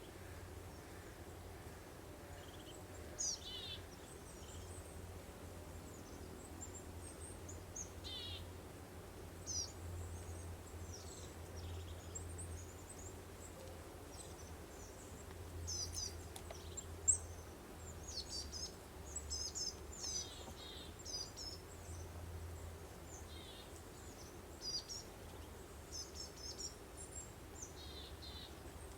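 Songbirds chirping and trilling in short high phrases, more densely in the second half, over a soft steady breeze and a low hum.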